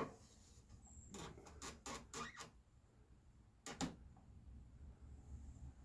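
A few light clicks and knocks: a quick cluster of about six in the first half and a single one a little before the four-second mark, over a low hum.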